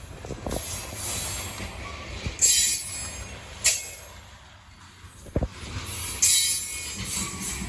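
Grain train's covered hopper cars rolling past close by: a steady rumble of wheels on rail, broken by several brief high wheel squeals and a single sharp clank about five seconds in.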